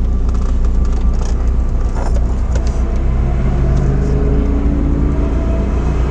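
Chevrolet S10's 2.2-litre four-cylinder through Flowmaster 40 mufflers, heard from inside the cab while driving: a steady low drone. About three seconds in, a clearer engine note comes through and climbs slightly as the truck pulls. There is a slight exhaust leak near the stock manifold, which the owner says may make it sound a little hissy or raspy.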